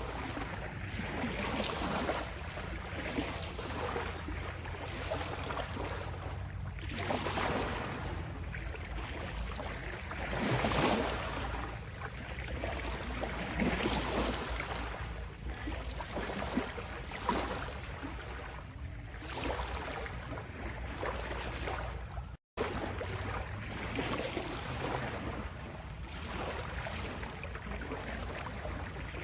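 Small waves lapping and washing on a shore, swelling softly every few seconds over a steady low rumble. The sound cuts out for an instant about two-thirds of the way through.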